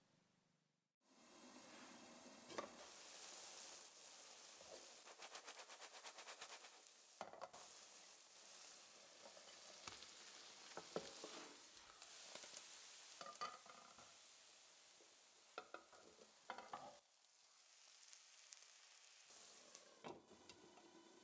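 Lentil-and-cabbage batter frying in a nonstick pan, a steady sizzle. Over it come scattered knocks and clatter of a ceramic plate and utensils against the pan, then a clink as a glass lid is handled near the end.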